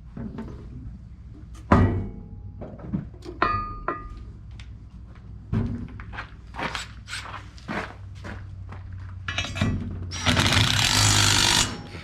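Metal bolts, nuts and hand tools clinking and knocking as a truck grille is bolted on, with a short metallic ring about three and a half seconds in. Near the end, a loud, steady rush of noise lasts about two seconds.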